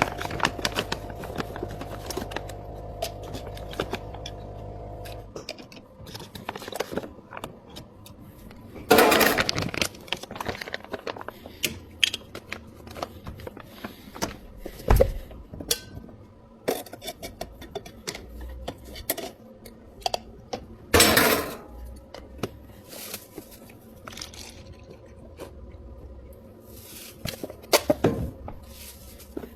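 Drink-making sounds in a bubble tea shop. A machine hums steadily and stops about five seconds in, then cups and utensils clink, knock and clatter, broken by three loud bursts of rushing noise.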